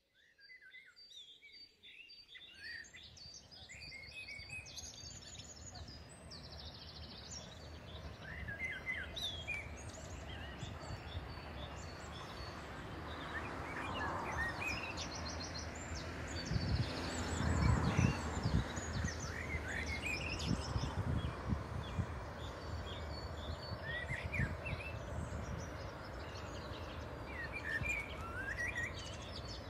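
Songbirds chirping and singing over the low rumble of distant trains, which swells to its loudest a little past the middle.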